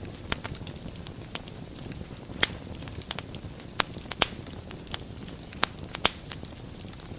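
Wood fire burning in a fireplace: a steady low hiss and rumble with sharp crackles and pops scattered through, the loudest pops about a third of a second in, near two and a half seconds, twice around four seconds and twice around six seconds.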